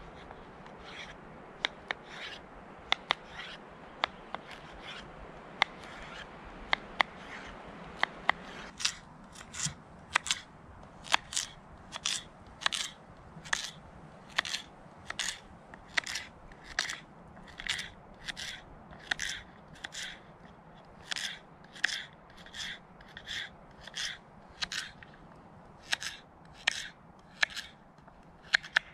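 Kitchen knife dicing zucchini on a cutting board: repeated crisp chopping strokes, scattered at first, then settling into a steady rhythm of about one and a half cuts a second.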